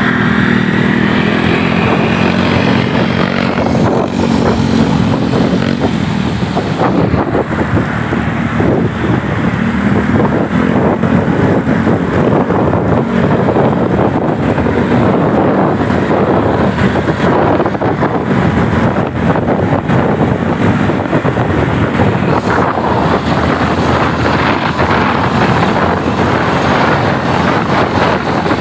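Motorcycle riding along the road: the engine runs steadily, then is largely covered after about four seconds by a loud rush of wind buffeting the microphone.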